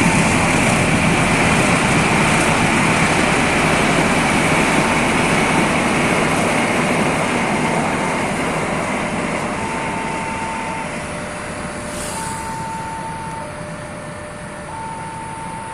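Train passing, a loud steady rushing rumble that slowly fades away, with an electronic two-tone warning signal alternating high and low notes, as at a railway level crossing, coming through more clearly as the train noise dies down.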